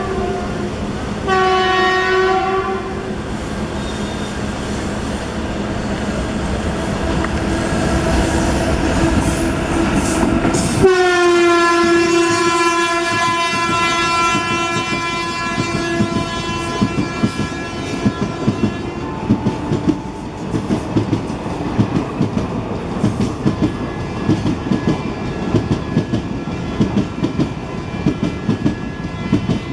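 Electric locomotive horn blowing two blasts, a short one and a longer one, as the train approaches with a rising rumble. About eleven seconds in it sounds one long blast that drops in pitch as the locomotive passes. The passenger coaches then roll past with a steady clickety-clack of wheels over the rail joints.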